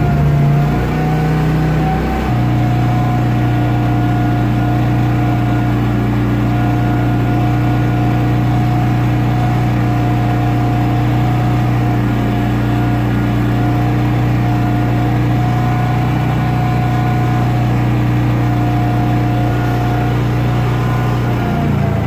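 Briggs & Stratton portable generator engine running at a steady speed, loud and even. Its note settles about two seconds in and starts to drop near the end.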